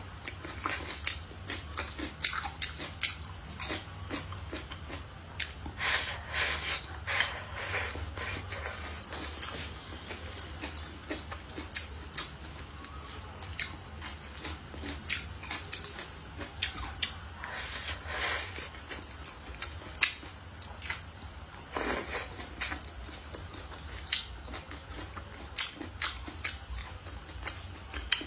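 A person biting and chewing stir-fried green chili peppers and meat close to the microphone: a string of irregular short clicks and crunches of chewing.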